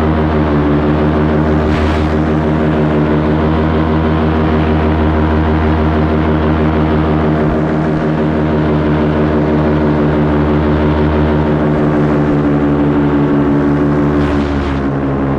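A paramotor's engine and propeller running at a steady pitch in flight, with brief rushes of hiss about two seconds in and again near the end.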